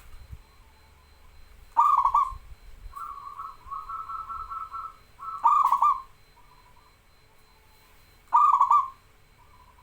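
Zebra dove (perkutut) singing: three loud, quick-pulsed cooing phrases about three seconds apart, with a softer run of rapid repeated coo notes between the first two.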